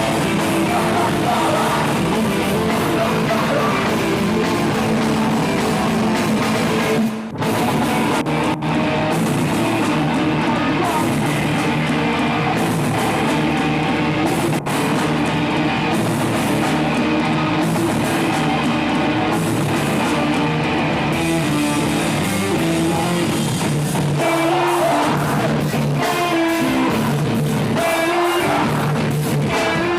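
Live rock band playing loud, with distorted guitars, a drum kit and singing; the music drops out briefly about seven seconds in.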